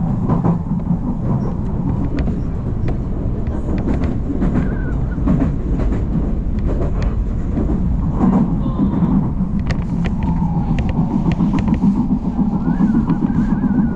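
Odakyu Line electric commuter train running: a steady low rumble with irregular clicks of the wheels over the rails.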